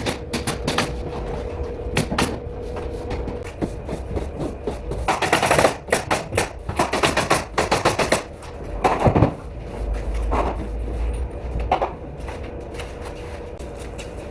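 Pneumatic nail gun firing, single shots and quick runs of rapid shots, over a steady hum.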